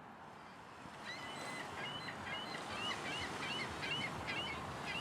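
Birds chirping outdoors: many short, quick calls repeated several times a second, starting about a second in, over a steady background hum of outdoor ambience.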